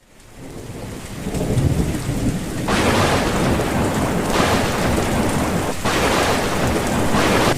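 Thunderstorm: rolling thunder under heavy rain, fading in. A low rumble builds over the first couple of seconds, then the steady hiss of a downpour swells up about three seconds in and holds.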